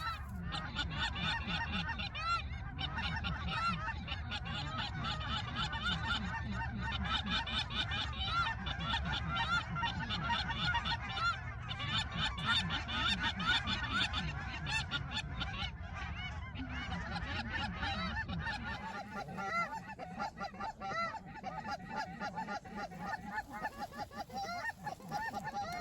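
A large flock of geese honking, a dense chorus of short overlapping calls. A low rumble runs underneath and drops away about three-quarters of the way through.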